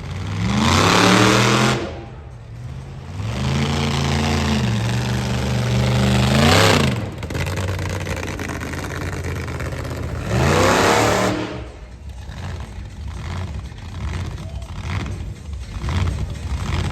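Monster truck's supercharged big-block V8 revving hard three times: a short rev, a longer held rev that climbs sharply near its end, and another short burst about ten seconds in, then dropping back to a lower, uneven rumble.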